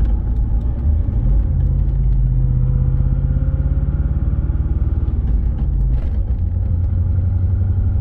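Twin-turbo LS V8 in a BMW E36 running with a steady low rumble. A faint whine slowly rises in pitch through the middle, and the engine note shifts about six seconds in. The owner says something is definitely off but is not sure what.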